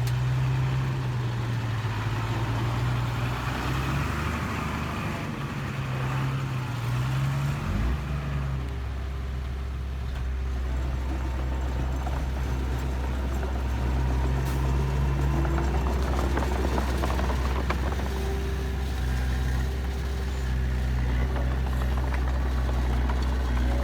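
Heavy diesel engines of construction machinery (bulldozer and dump trucks) running steadily, with a deep engine drone; the engine note shifts and deepens about a third of the way in, as a machine changes speed or load.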